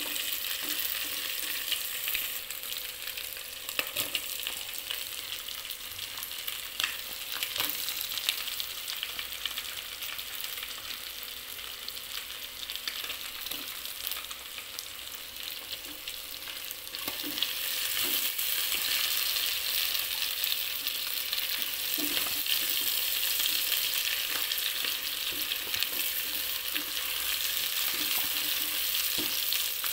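Oil sizzling as shrimp, scrambled egg, sliced meatballs and sausage are stir-fried in a pot, with a spatula scraping and clicking against the pot. The sizzle gets louder a little past halfway.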